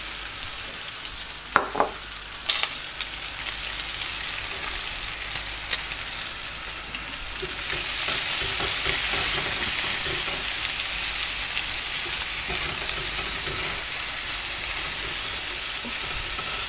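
Diced smoked bacon and red onion frying in rendered bacon fat and butter in a hot frying pan while being stirred, a steady sizzle that grows louder about eight seconds in. Two light knocks come in the first few seconds.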